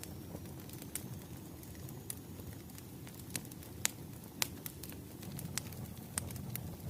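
Wood fire burning, with a steady low rumble and scattered sharp crackles and pops, the loudest pops a little before and after the middle.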